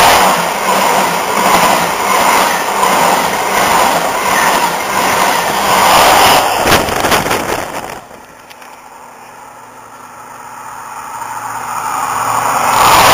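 InterCity 125 (HST) passing at speed close by: a loud rush of wheels and air, with the rear Class 43 power car's diesel engine going past about six seconds in, followed by a quick run of sharp clicks. About eight seconds in the sound drops abruptly to a distant rumble that swells steadily as another HST approaches.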